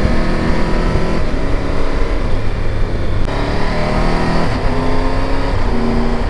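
Triumph Tiger 1200 GT Pro's three-cylinder engine accelerating under way: its note climbs in pitch and drops back at each of several upshifts, over a steady low rush of wind and road.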